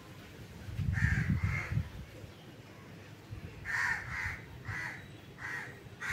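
A bird calling repeatedly in short calls: two close together about a second in, then a run of four more, about half a second apart, in the second half. A brief low rumble sits under the first pair.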